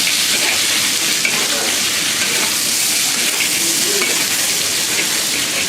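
Steady, loud sizzling hiss of food frying in hot oil in a wok.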